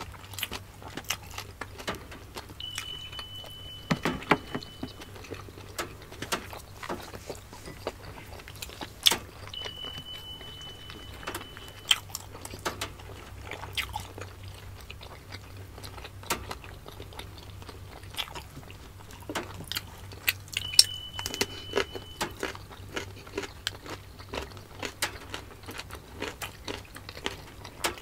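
Close-miked chewing and biting of steamed siomai dumplings, wet mouth sounds with many small clicks and smacks. A thin steady high tone sounds briefly three times.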